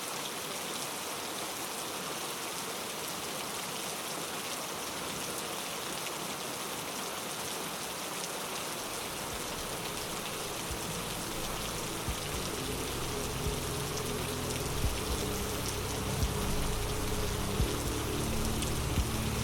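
Steady rain falling, an even hiss of drops. About halfway through, soft low sustained music fades in beneath it and grows louder, with a few faint thumps.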